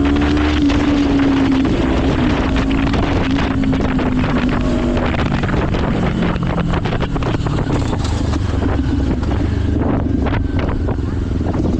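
Motorcycle engine running with wind buffeting the microphone; the engine note drops lower about halfway through.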